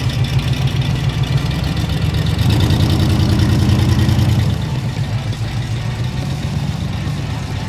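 A vehicle engine idling steadily, growing louder and fuller for about two seconds in the middle before settling back to a steady idle.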